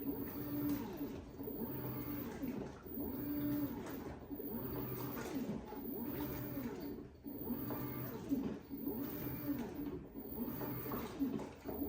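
LG WT16WV6 top-load washing machine agitating a load of towels: its motor hums at a pitch that rises, holds and falls again about every second and a half as the drum turns back and forth.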